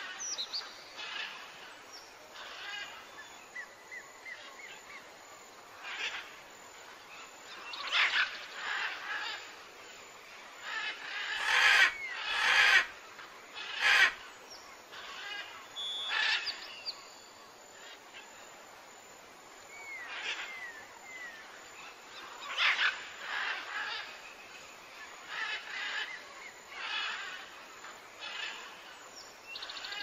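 Several birds calling and chirping, with short chirps that bend up and down in pitch, and a few louder sharp sounds about halfway through.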